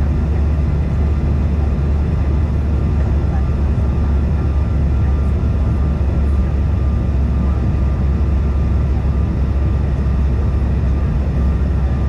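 Steady airliner cabin noise in a CRJ-550 regional jet in flight: a deep, even rumble of airflow and the rear-mounted turbofan engines, with a faint steady whine on top.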